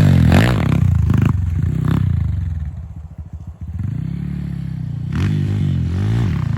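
Dirt bike engine revving up and down. It drops away briefly about three seconds in, then picks back up.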